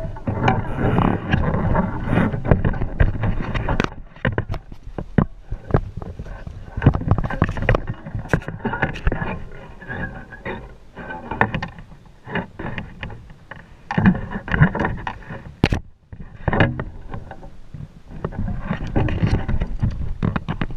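Irregular knocking, rattling and water splashing around a kayak, picked up by a GoPro mounted on the fishing rod. It is busiest at the start, again a little past the middle, and near the end.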